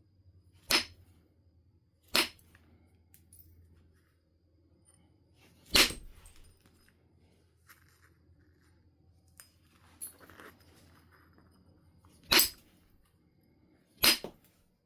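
Percussion flintknapping: a billet striking the edge of a stone nodule five times, each strike a sharp crack, at uneven intervals with a few faint clicks of stone handling between.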